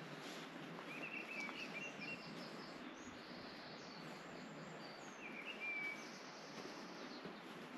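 Small birds chirping in two short bursts, with thin high calls in between, over a steady outdoor hiss.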